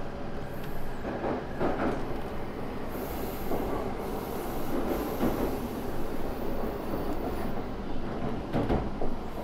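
E5 series Shinkansen heard from inside the passenger car as it pulls slowly out of the station. A steady low rumble of the train rolling, with a few short knocks from the wheels and rails, the loudest near the end.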